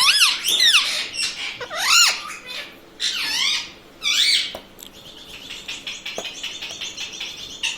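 Indian ringneck parrot calling: several loud, high calls that rise and fall in pitch over the first four and a half seconds, then a fast run of short, high chirps.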